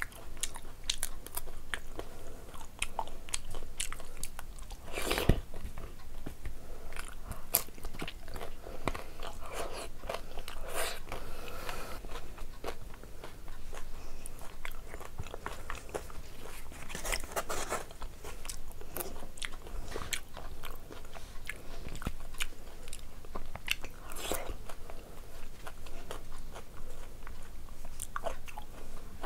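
Close-miked eating sounds: crisp puri shells crunching and being chewed, bite after bite, with a sharp crunch about five seconds in.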